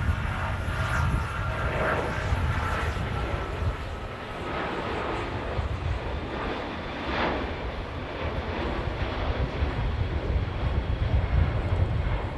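Jet airliner engines rumbling steadily, with a thin engine whine in the first few seconds that fades away.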